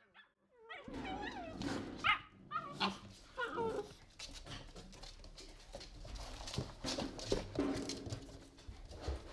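Pit bull puppies play-fighting: a few seconds of short barks and whining calls, then scuffling with many small knocks and clicks and an occasional call.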